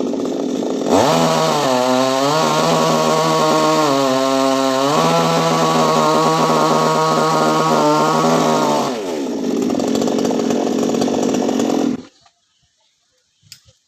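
Chainsaw running at full throttle while cutting a coconut palm trunk, its pitch dropping twice as the chain bogs into the wood, then easing off and stopping abruptly near the end.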